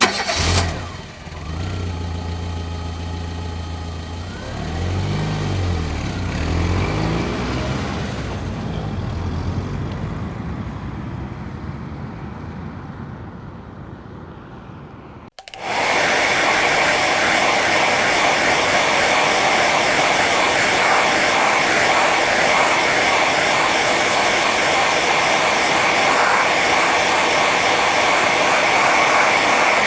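Two different motor recordings back to back. First, a motor runs with its pitch rising and falling and slowly fades over about fifteen seconds. After an abrupt cut, a second motor gives a loud, steady rushing run with a high whine.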